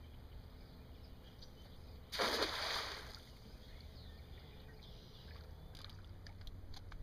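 Outdoor sound on a drifting boat on open water: a steady low rumble, with a sudden loud rush of noise about two seconds in that fades within a second, and a few faint clicks near the end.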